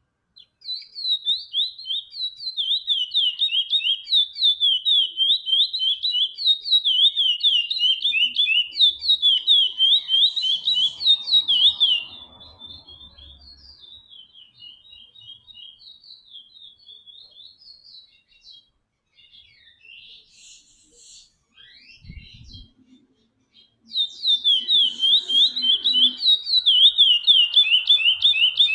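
Chestnut-bellied seed finch (curió) singing: a fast run of clear whistled notes sliding up and down, loud, then softer and broken for about ten seconds in the middle, and loud again near the end.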